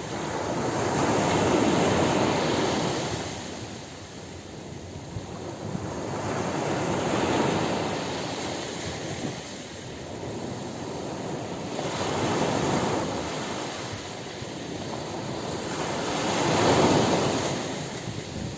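Ocean surf washing onto a beach: four waves swell up and fall away, roughly one every five seconds, with a steady hiss of water between them; the last wave, near the end, is the loudest.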